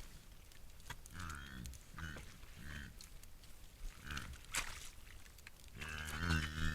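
Wild boar grunting: a few short grunts whose pitch rises and falls, then a longer, louder grunting call near the end.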